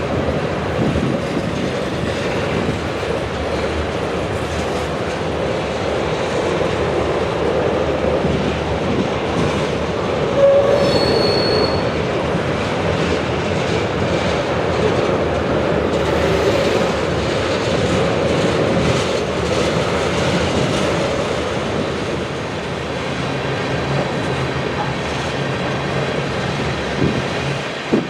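Train rolling past: steady rumble and rattle of wheels on rail, with a brief high squeal about ten seconds in.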